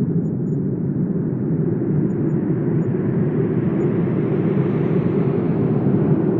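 Wind blowing steadily with a low rushing sound. It grows brighter as a gust builds about four seconds in.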